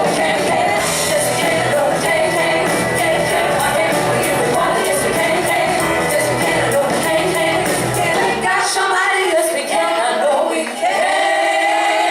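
Live band with female singers performing in a hall. About eight seconds in, the bass and drums drop away and the voices hold one long note near the end.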